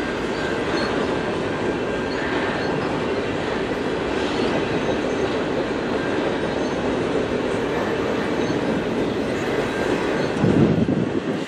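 Double-stack intermodal freight train rolling past: a steady rumble and clatter of the well cars' wheels on the rail joints, with faint high-pitched wheel squeals. A brief louder rumble comes near the end.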